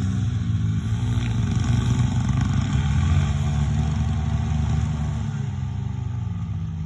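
Small motorcycle engine running under throttle as it goes by, loudest about three seconds in, then fading toward the end.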